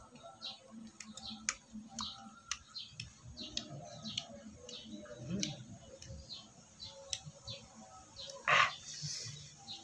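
A bird chirping over and over, about two short high chirps a second, with scattered sharp clicks. One short, louder burst of sound stands out about 8.6 s in.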